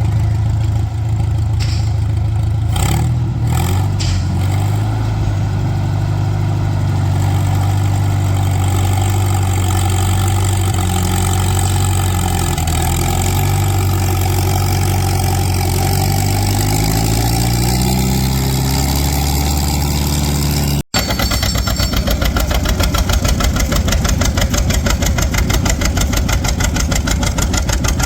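Antique farm tractor engines running loudly: a steady engine note that rises somewhat in pitch, then after a sudden cut about two-thirds of the way through, an engine with a quick, even putt-putt firing beat.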